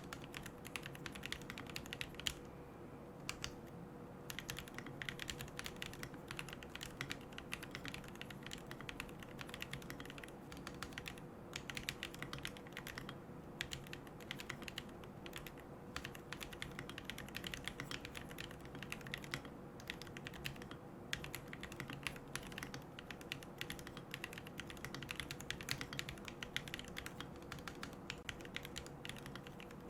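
Fast continuous typing on a QK75N mechanical keyboard with Gateron Moon Landing switches, MilkyWay Poker keycaps, a carbon plate and no foam: a dense patter of key clacks, with a brief lull a few seconds in.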